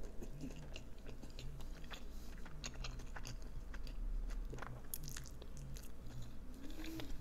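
Close-miked chewing of a mouthful of slider burger: wet smacking of the lips with small crunches and crackles. A short hummed tone near the end.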